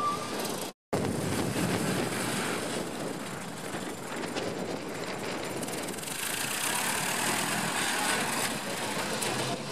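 A vehicle engine running at idle, steady throughout, broken by a brief gap of silence just under a second in.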